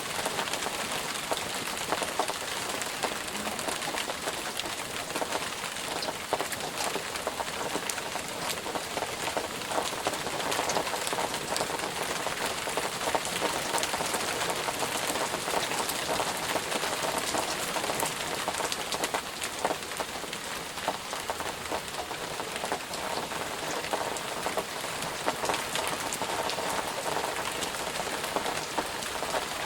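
Steady rainfall, dense patter of many individual drops striking a surface.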